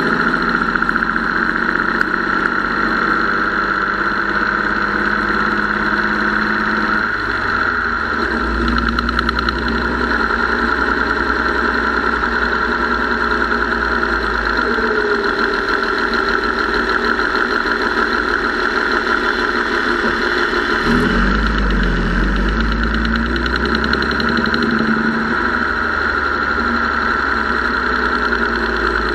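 Gasoline engine running with a steady ticking clatter from the valvetrain, its speed shifting a couple of times. The owner first suspected the mechanical fuel pump, but the noise stayed with the pump disconnected, and he now suspects a tired or weak valve spring.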